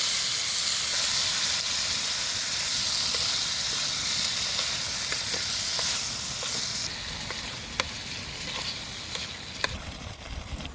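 Food sizzling as it fries in a pan, a steady hiss with a few sharp pops, easing off in the last few seconds.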